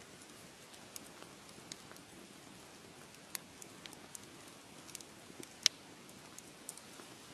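Wood fire crackling: a soft steady hiss with scattered sharp pops and snaps at irregular intervals, the loudest pop a little past the middle.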